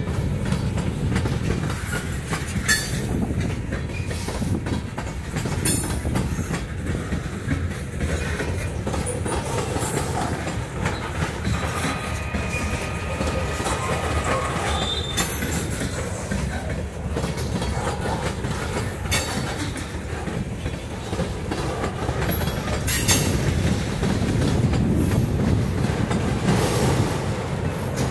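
Freight train cars rolling past close by: a steady rumble of steel wheels on rail with clickety-clack over the rail joints and a few sharp knocks. A faint wheel squeal comes in about halfway through.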